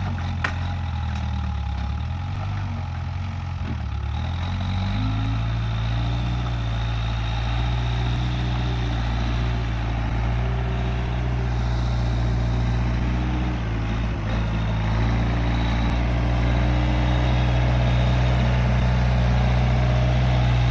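Case 580G backhoe loader's diesel engine running, its speed wavering up and down over the first few seconds and then holding steady, a little louder near the end.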